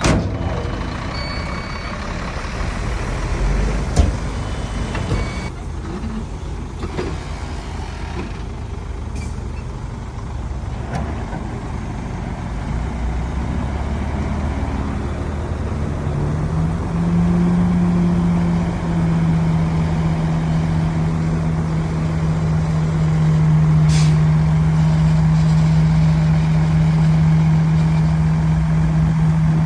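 Heavy diesel earthmoving machinery running, with a sharp click about four seconds in. About halfway through, a strong steady engine drone comes in, climbs slightly in pitch and holds, louder, to the end.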